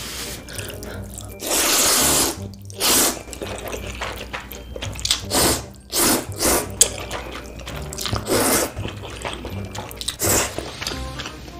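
Loud, wet slurping of instant ramen noodles in spicy broth, in repeated bursts: one long slurp near two seconds in, then a string of shorter slurps.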